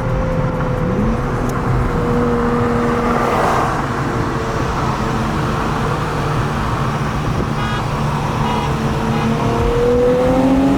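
Car engine running under way at a steady pitch, its note sagging slightly through the middle and then climbing near the end as the car speeds up.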